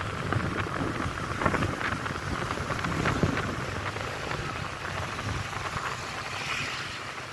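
Steady rushing hiss of motorbike street traffic, heard from a moving motorbike.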